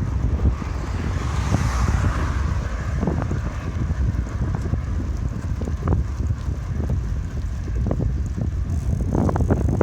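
Wind buffeting the microphone during a bike ride, a steady low rumble, with scattered short knocks and rattles that come thicker near the end.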